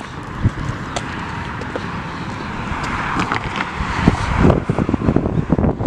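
Road traffic going by with wind buffeting the microphone, the traffic noise growing louder a few seconds in.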